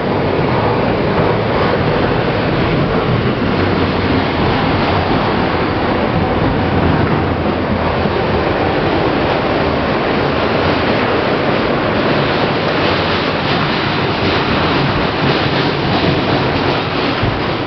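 Inside an R160B New York City subway car while the train is moving: a steady running noise from wheels on rail and the car's motors.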